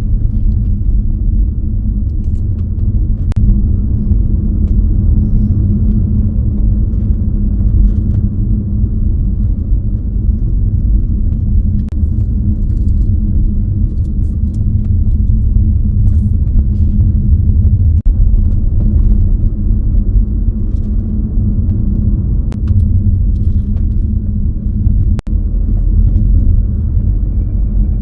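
Car driving along a road: a steady low rumble of engine and tyre noise with a constant drone, and a few faint clicks.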